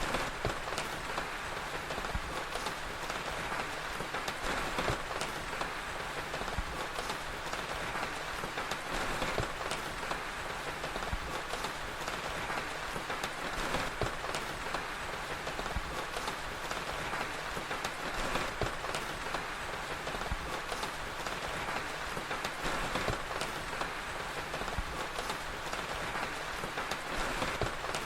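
Steady rain hissing evenly, with frequent small pops and crackles of a wood fire scattered through it.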